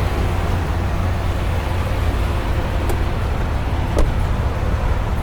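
Semi truck under way: steady low engine drone with road noise, and a light knock about four seconds in.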